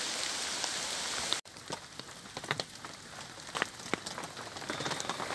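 Heavy rain. First a dense, steady hiss of downpour in woodland, then, after a sudden cut about a second and a half in, a quieter hiss with many separate drops ticking on the fabric overhead, heard from inside a hammock.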